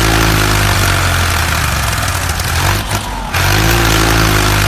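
Engine of a heavy vehicle running steadily at a low idle. It cuts out briefly about three seconds in and picks up again with a short rise in pitch.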